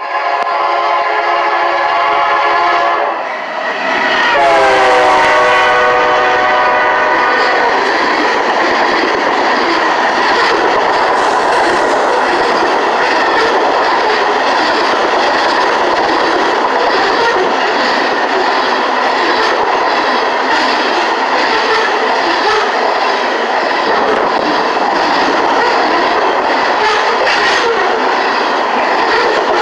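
BNSF freight locomotive's air horn sounding a chord, breaking off briefly about three seconds in, then sounding again and dropping in pitch as the locomotive passes at speed. After that comes the steady rushing noise and wheel clatter of covered hopper grain cars rolling by close at hand.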